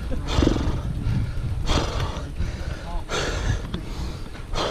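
A cyclist's heavy, laboured breathing while straining up a steep climb, a loud breath about every second and a half. Wind rumbles on the microphone underneath.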